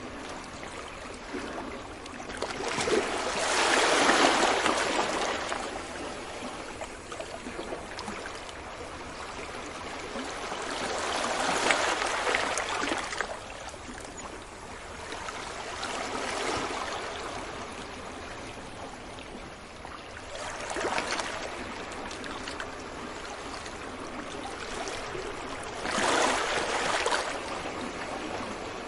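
Ocean waves breaking on a beach: a steady wash of surf that swells louder several times, at uneven intervals of a few seconds, as waves break.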